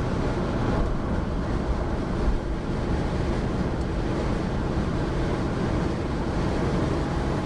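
Steady road noise inside a car's cabin while cruising on a highway: tyre rumble and engine hum.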